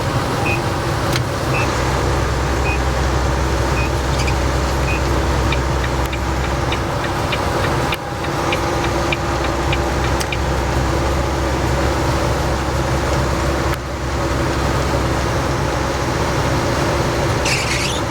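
Semi truck running down a snowy highway, heard from inside the cab: steady low engine hum under tyre and road noise. In the first half there is a short run of evenly spaced high beeps, followed by faint ticks.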